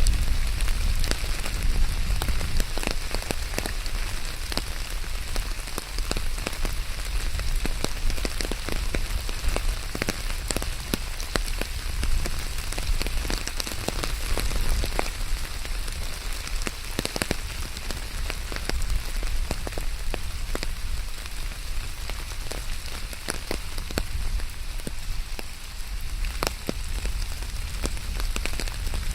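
Steady rain falling on hard surfaces, a dense patter of individual drops over a continuous hiss, with a low rumble underneath.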